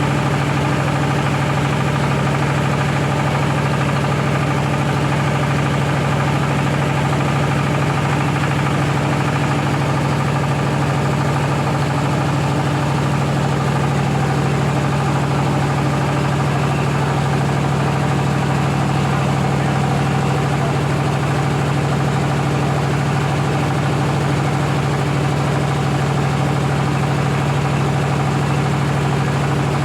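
Rice milling machine running steadily, a loud constant mechanical drone with a strong low hum that never changes.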